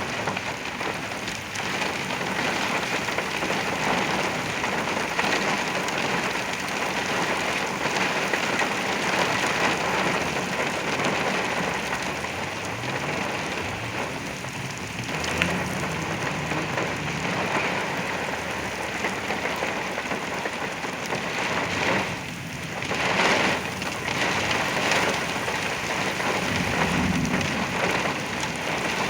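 Very heavy rain pounding on a truck in a derecho thunderstorm, heard from inside the cab: a dense, steady downpour that briefly eases and then surges louder about three-quarters of the way through.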